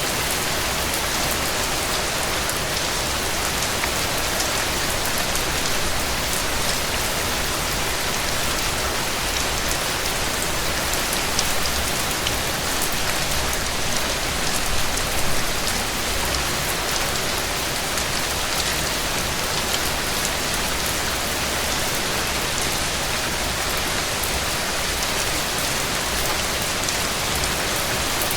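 Heavy rain falling steadily: a dense, even hiss peppered with fine patter of drops, swelling slightly twice near the middle.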